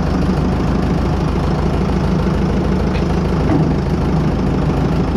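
1955 Fordson Major tractor engine running steadily at idle.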